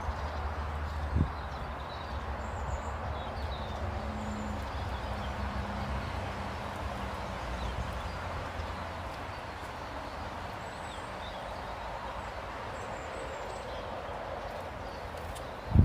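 Steady outdoor background noise with a low rumble, and a few faint, short high bird chirps scattered through it. There is a small click about a second in and a louder knock near the end.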